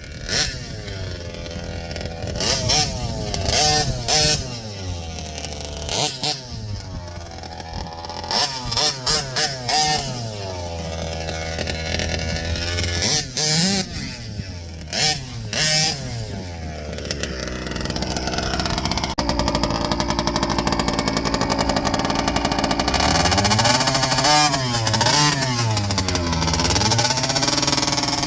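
Taylor two-stroke race engine in a large-scale RC car being gently run in: it is revved up and down in many short bursts, then runs more continuously with longer rising and falling revs near the end.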